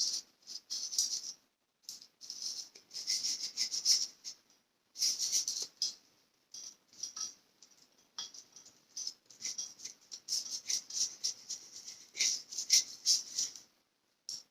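Scraping of a hand tool on steel in short, irregular, scratchy strokes that come in bunches with brief pauses between them.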